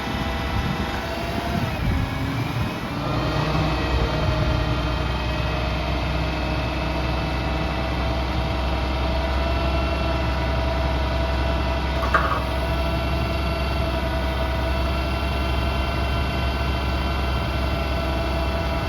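Heavy truck diesel engine, a Cummins in a Kenworth T480, running at a steady speed with several steady whining tones above the rumble. The tones dip and shift about two seconds in, then hold steady. There is one short sharp noise about twelve seconds in.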